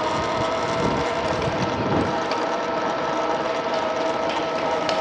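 MX Sting electric motor scooter on the move: a steady motor whine that rises slightly at first and then holds its pitch, over wind rushing on the microphone.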